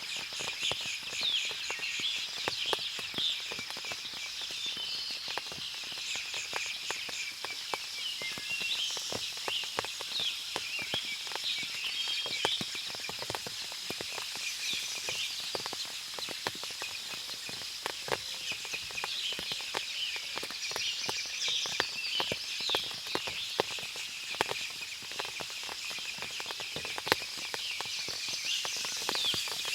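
Forest after rain: many birds chirping and calling over a steady high-pitched hum, with constant irregular drips and pattering of water falling from the trees.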